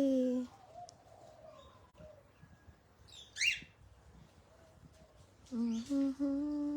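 A cockatiel gives one short, high chirp about three and a half seconds in. A person hums low steady notes at the start and again near the end.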